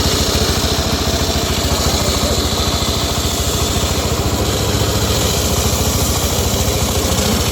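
Engine of a homemade circular sawmill running steadily with an even, fast low throb, with a constant hiss above it.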